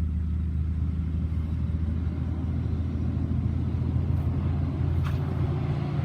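A steady low motor hum, like an engine running, with a faint click about five seconds in.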